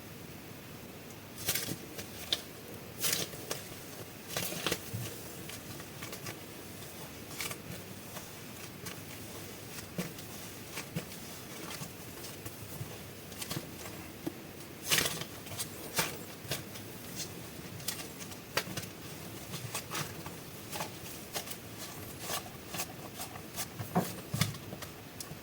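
Plastic packaging of soft air-dry super clay being crinkled and handled: irregular crisp crackles and clicks over a soft rustle, the sharpest about 15 seconds in.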